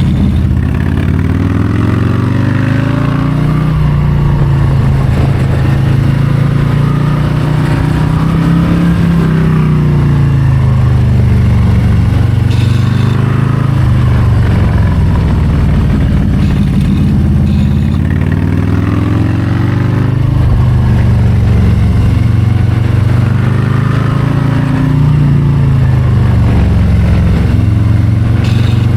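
Harley-Davidson Low Rider ST's Milwaukee-Eight 117 V-twin under way, loud and continuous. The engine's pitch rises and falls again and again as the rider accelerates and rolls off the throttle.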